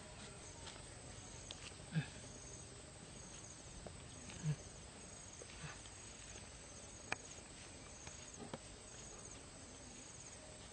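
Faint insect chirping: short, high, pulsed chirps repeating roughly once a second. A few soft low thumps and one sharp click stand out above it.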